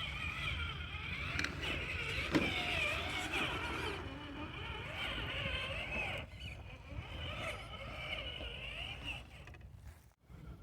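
Traxxas TRX-4 RC crawler's electric motor and drivetrain whining as it crawls over rocks, the pitch wavering up and down with the throttle, in two stretches with a pause after about six seconds. A sharp knock about two seconds in.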